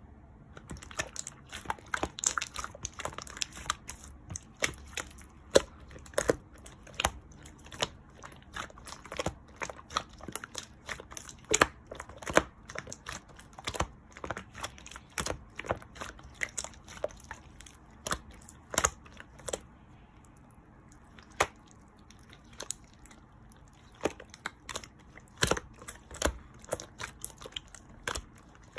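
Slime being squeezed and pressed by hand, giving irregular sharp clicking and crackling pops, with a quieter stretch a little past the middle.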